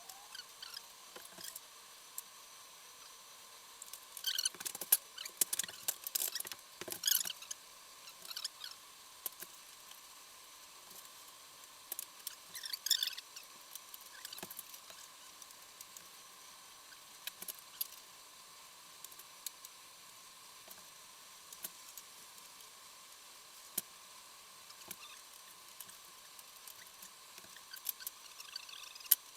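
Small metallic clicks, taps and scrapes of hands and tools working on a motorcycle engine's cam and timing-chain parts while the timing marks are lined up, coming in clusters about four to eight seconds in and again around thirteen seconds, with scattered single clicks after. A faint steady hum runs underneath.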